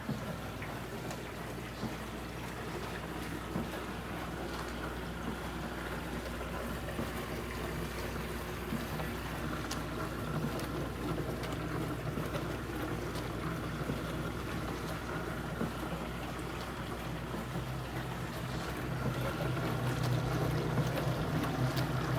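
Countertop dishwasher running: a steady motor hum with water noise and a few small clicks, growing a little louder near the end.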